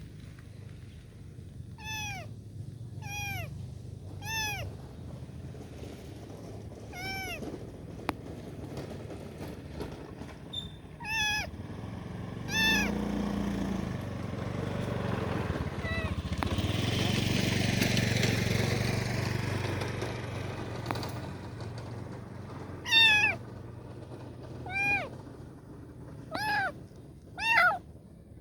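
A kitten meowing over and over: short, high cries that rise and fall, coming in little clusters with pauses between them, a young kitten crying out for help. Midway a rushing noise swells and fades over several seconds.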